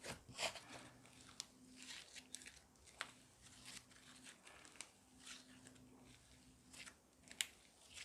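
Slime being squeezed and stretched by hand, giving soft, irregular crunchy crackles and pops, with one sharper pop near the end.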